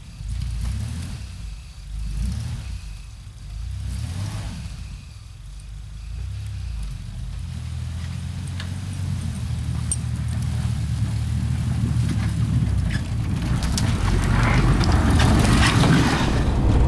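Truck engine running and then speeding up, getting steadily louder, with road and tyre noise rising near the end.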